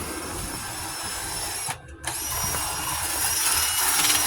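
Power sander running on body filler with a steady high whine, stopping for a moment about two seconds in and then coming back louder.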